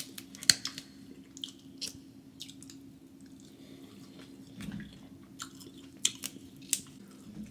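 Close-miked mouth sounds of a person chewing crab and seafood boil: wet smacking clicks, a cluster about half a second in and another around six seconds in.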